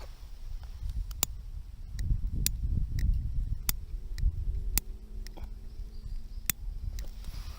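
Wood bonfire crackling with a big log burning: sharp single pops about every second, over a low rumble.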